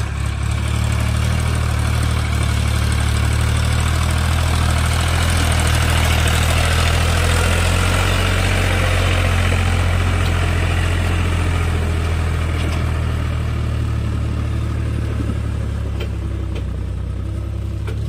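Heavy diesel engine of a tractor or excavator running steadily. A rougher, louder working noise swells in the middle and then eases off.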